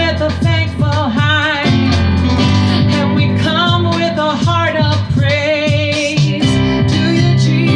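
Music: a woman singing held notes with vibrato, wordless or indistinct, over steady instrumental accompaniment.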